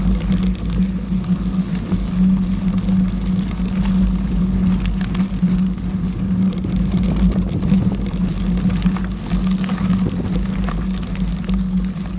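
Mountain bike rolling along the trail: a steady hum from the tyres and drivetrain over low rumble, with small rattles and clicks.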